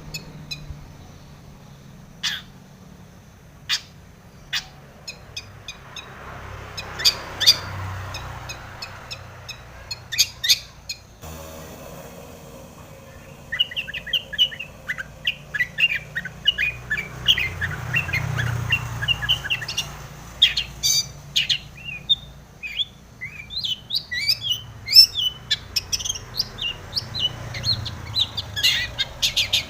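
Long-tailed shrike (cendet) singing: sharp, scattered calls in the first half, then from about 13 seconds in a fast, dense run of chattering phrases, the mimicked 'isian' in a cendet's full song.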